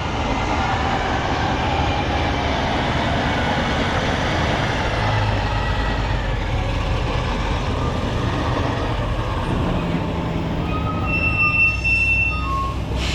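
Car-hauler truck driving, with a steady, heavy running and rattling noise and a brief high squeal near the end.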